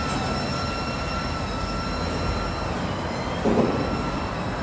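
Freight train rolling on the rails, a steady rumble with a thin, steady high squeal of steel wheels on the rail over it, and a short louder knock about three and a half seconds in.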